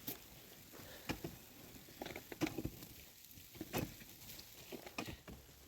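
Scattered light knocks and taps, irregular, about one a second, over a faint hiss: objects being handled or set down.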